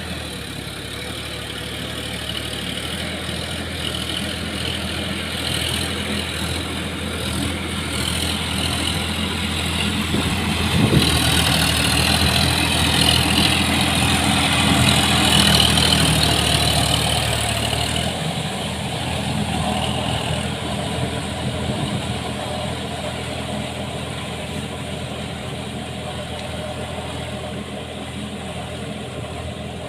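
Sonalika tractor's diesel engine running, getting louder from about ten seconds in and easing back down after about eighteen seconds.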